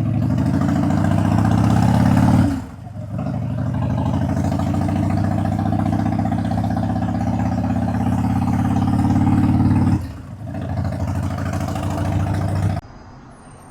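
Harley-Davidson Dyna's V-twin engine running steadily under way. The level dips briefly about two and a half seconds in and again about ten seconds in, then picks back up each time. The engine sound cuts off abruptly near the end.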